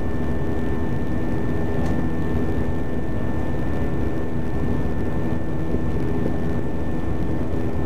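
Steady cabin noise of an Airbus A320 airliner in flight, heard from inside the passenger cabin: an even rumble of engines and rushing air with a low hum and a faint steady high tone.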